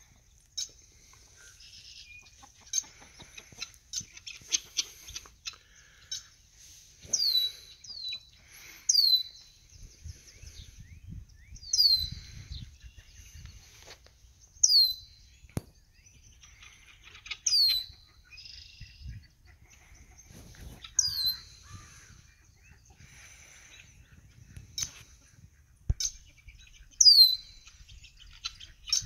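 A bird calling with a high, sharp falling whistle, repeated about every two to three seconds, over faint chirping. A low rumble comes and goes.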